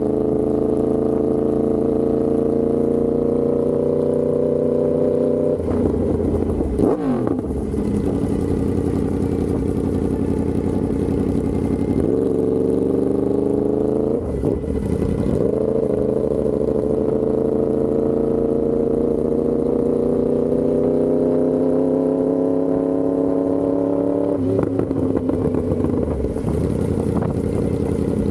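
Yamaha R1M's crossplane inline-four running through an SC Project exhaust while riding, its pitch climbing slowly under throttle. Three times, about six, fourteen and twenty-five seconds in, the engine note drops sharply and then settles or climbs again.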